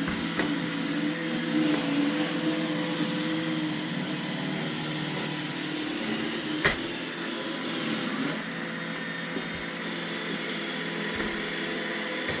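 iRobot Roomba E6 robot vacuum running, a steady motor and brush hum, with one sharp click about halfway through.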